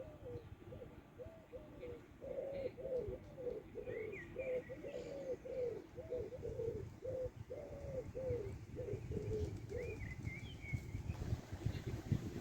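A dove cooing in a long run of short, arched coos, about two a second, that stops about ten seconds in. A small bird chirps briefly a couple of times.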